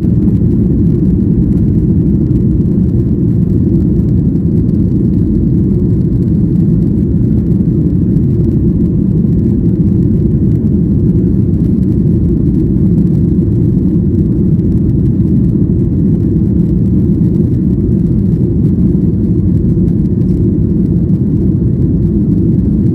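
Jet airliner cabin noise: a loud, steady, low rumble of engines and airflow heard from inside the passenger cabin, holding even throughout.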